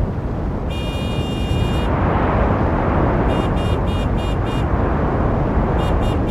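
Heavy street traffic rumbling steadily, with a car horn giving one long blast about a second in, five quick toots in the middle and another fast string of toots near the end. The traffic noise swells briefly after the long blast as a vehicle passes.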